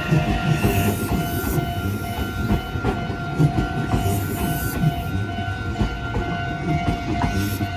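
Meitetsu 2000 series μSKY train running past, a low rumble with wheels clicking over the rail joints. A level-crossing warning alarm rings steadily over it.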